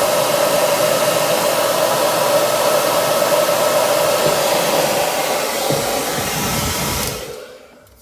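Hair dryer blowing steadily on the frozen ice maker to melt the ice, then switched off near the end and winding down.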